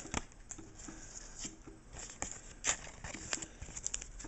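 Pokémon trading cards being handled: a string of soft slides, flicks and light taps of card stock against card.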